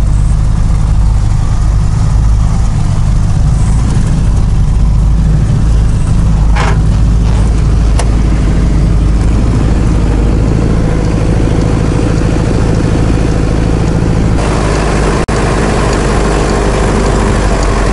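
An off-road vehicle's engine runs steadily with a loud, low drone. There is a brief rustle about six and a half seconds in, the hiss grows from about fourteen seconds in, and a sharp click comes about a second later.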